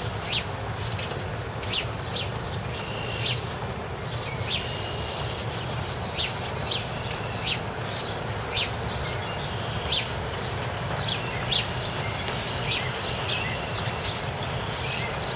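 Small birds chirping and calling, short high notes roughly once a second with a few brief whistled tones, over a steady low outdoor hiss.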